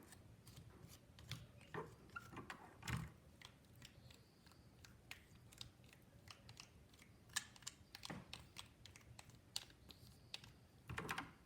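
Faint, irregular clicks and scrapes of a spoon spreading peanut butter onto a pine cone and scooping it from the jar, with a few louder taps about three seconds in, around seven seconds in and near the end.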